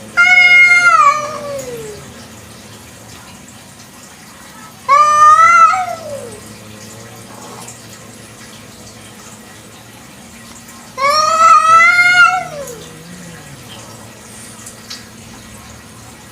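Village cat meowing loudly three times, each a long drawn-out meow that rises and then falls in pitch, several seconds apart.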